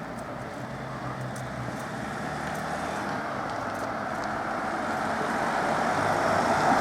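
Road traffic on a town street: an even tyre-and-engine rush that grows steadily louder as a vehicle approaches near the end.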